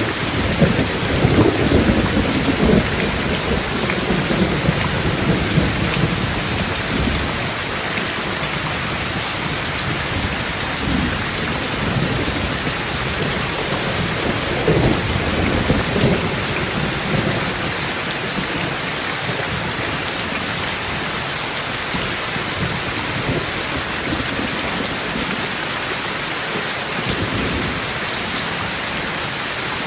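Heavy rain falling steadily, with thunder rumbling low beneath it, strongest in the first few seconds, again around the middle, and briefly near the end.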